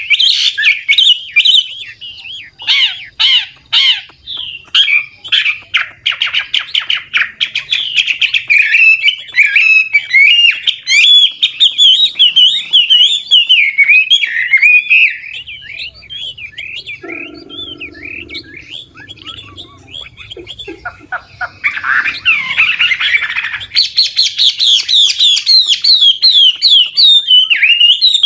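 Chinese hwamei, an old wild-caught bird, singing a long run of rapid whistled phrases that keep switching pitch and pattern. The song turns softer for several seconds past the middle, then comes back loud.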